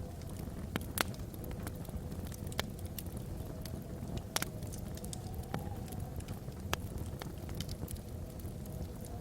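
Wood logs burning in a fireplace: a steady low rumble with sparse sharp crackles and pops, one every second or two. A soft wind howl wavers slowly up and down in the background.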